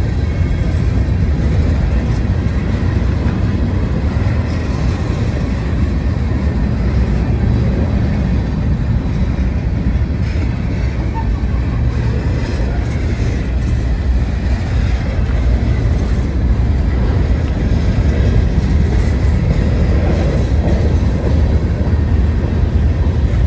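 Freight cars of a Norfolk Southern freight train rolling past: a steady, loud rumble of steel wheels on the rails.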